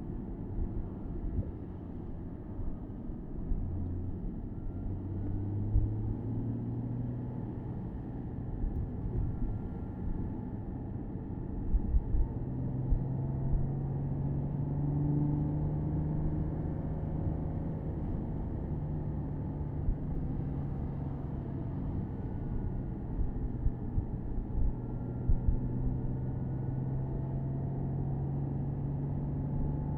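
Porsche Boxster S (987.2) 3.4-litre flat-six engine running while driving, heard from the open-top cabin over tyre and road rumble. Its note holds steady for stretches and steps up or down in pitch a few times as speed and gears change.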